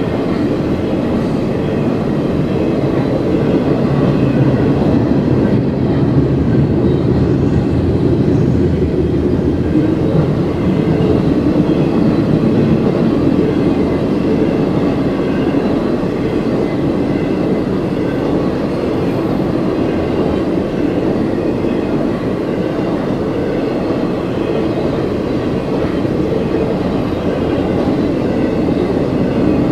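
CSX freight train rolling steadily past: a continuous, loud rumble of steel wheels on rail that holds the same level throughout.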